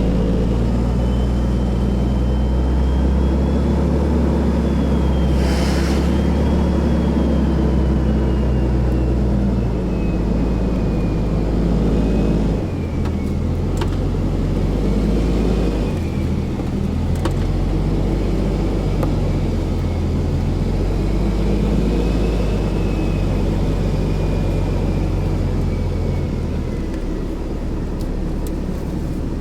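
A car's engine and road noise heard from inside the car as it drives slowly, with a steady low hum whose pitch shifts about halfway through.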